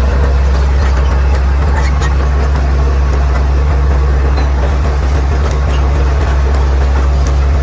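Caterpillar D6R XL bulldozer's diesel engine running steadily, a deep even drone with a few faint clicks on top.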